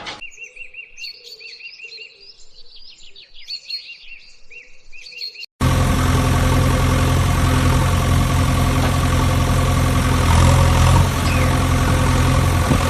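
Birds chirping in quick repeated short calls, then a sudden cut about five and a half seconds in to a loud, steady engine idling.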